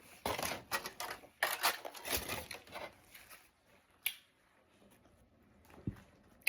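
Close crinkling and rustling of food and its wrapping being handled for about three seconds, then one sharp click.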